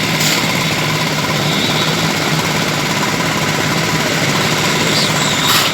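Construction machinery engine running steadily with a dense, rattling clatter, and a brief sharp noise near the end.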